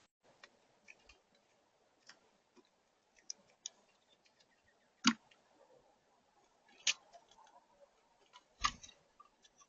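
Birds at a seed feeder: scattered small clicks and taps of beaks and feet on the feeder. There are three louder knocks, about five, seven and eight and a half seconds in, the last with a dull thud.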